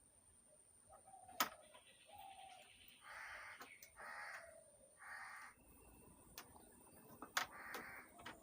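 Faint, harsh bird calls, four of them about a second apart, with a couple of sharp clicks from parts being handled.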